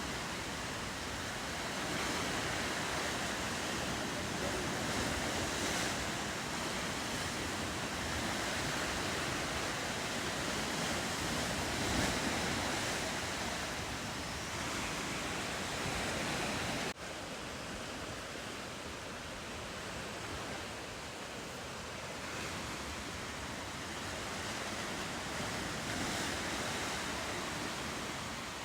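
Ocean surf and wind: a steady, even rush of waves. The level drops abruptly about 17 seconds in, then carries on slightly quieter.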